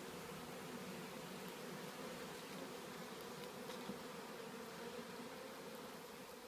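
Steady hum of a honeybee swarm at the entrance of its new hive box, many bees fanning their wings. The fanning is the bees' call to the rest of the swarm to come inside, a sign the queen is in the box.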